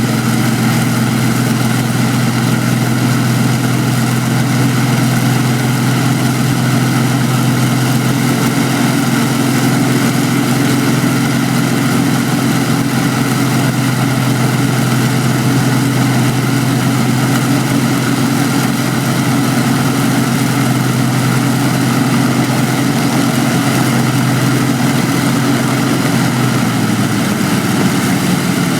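Aeroplane engine running steadily, its low, even note holding and then shifting near the end.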